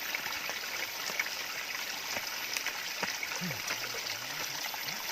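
Steady rush of running water, an even hiss without pauses.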